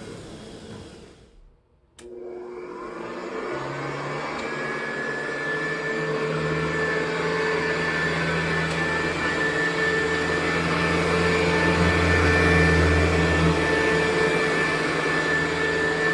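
Hoover U4007 upright vacuum cleaner's motor winding down almost to a stop. About two seconds in it is switched back on with a click, spinning up with a rising whine and then running steadily.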